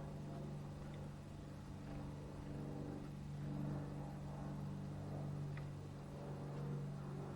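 A steady low mechanical hum, like an engine or road traffic, with a few faint, brief high chirps.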